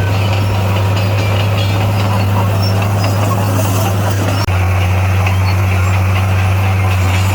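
Heavy construction-machine diesel engine running steadily with a low, even hum. About four and a half seconds in there is a brief dropout, and after it the hum sits slightly lower in pitch.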